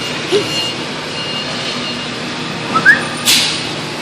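Forklift running with a steady hum while its high-pitched warning beeper sounds on and off. Near the end comes a short rising squeak, then a brief hiss.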